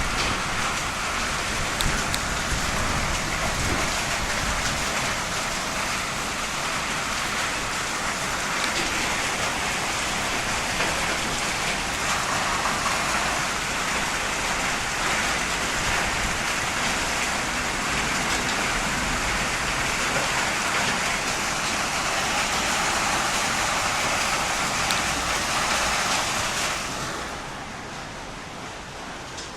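Heavy rain pouring steadily in a thunderstorm, dropping noticeably quieter near the end.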